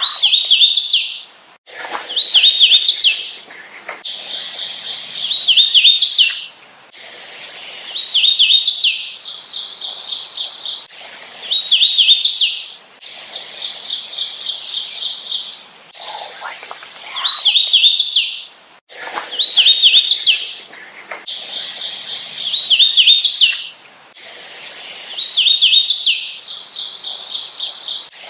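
Hooded warbler singing: a short phrase of clear, slurred whistled notes that ends in a sharp upward note, repeated about every two to three seconds. Between some songs come quick runs of even, repeated notes.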